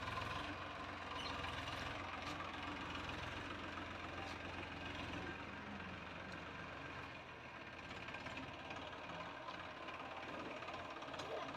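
Tractor engine running steadily at low revs, a low, even throb that weakens about seven seconds in.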